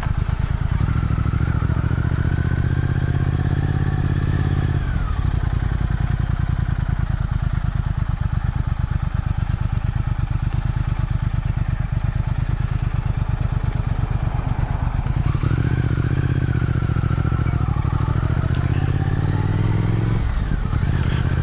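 Motorcycle engine under way on the road, the revs climbing, dropping sharply about five seconds in, running steady, then climbing again and dropping once more near the end.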